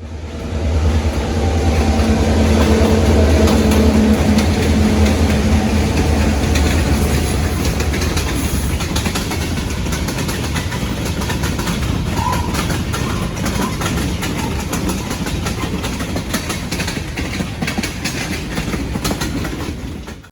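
Train passing on the rails. A locomotive's low engine drone dominates the first several seconds, then gives way to the steady clatter of cars rolling over the track. The sound cuts off suddenly at the end.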